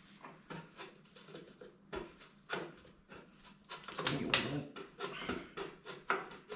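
Pry bar levering between the engine block and its crankcase cradle to split them: a run of short metallic clicks, knocks and scrapes, busiest about four seconds in, as the cradle is worked loose off its dowels.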